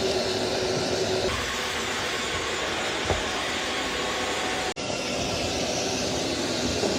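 eufy Omni S1 robot vacuum-mop running, a steady hum of its suction fan and rolling mop and brush, while it cleans the floor. There is a small knock about three seconds in and a brief break in the sound about five seconds in.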